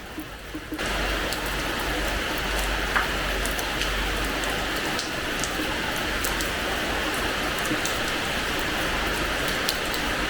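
Rain falling on a terrace floor: a steady hiss of rain with scattered sharp drop ticks. About a second in, it suddenly becomes louder and denser.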